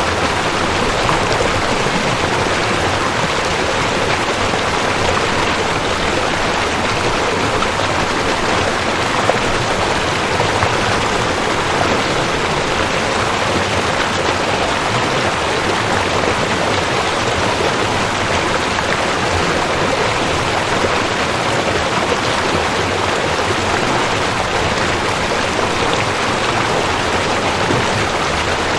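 Rushing creek: water running fast over rocks, a steady, even rush.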